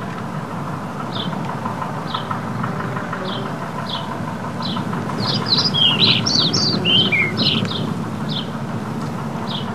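Songbirds in woodland: a short high chirp repeated about once a second, with a busier run of song from several notes about halfway through. Underneath runs a steady low rumble.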